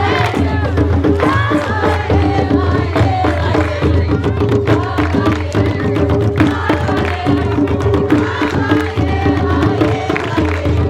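Hand drums beating a jongo rhythm while a group of voices sings along.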